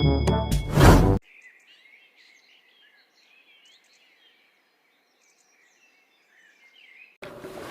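A music jingle that stops abruptly about a second in, followed by faint, high, wavering bird chirps. Near the end a louder, steady background noise cuts in.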